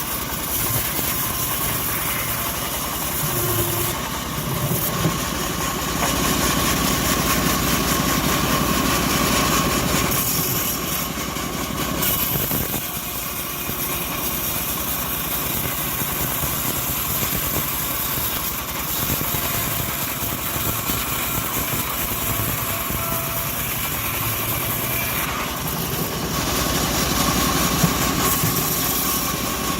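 Homemade sawmill bandsaw running steadily and cutting through an acacia log, a continuous machine drone with a high whine. It grows somewhat louder for a few seconds at a time.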